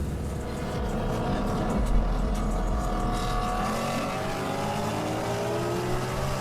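Street-racing cars' engines accelerating hard at full throttle. The pitch climbs steadily, drops about four seconds in as a gear is shifted, then climbs again.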